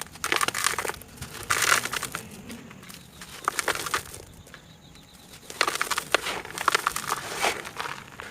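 Brittle, crunchy material being crushed, in about five bouts of dense crackling crunches with short quieter pauses between them.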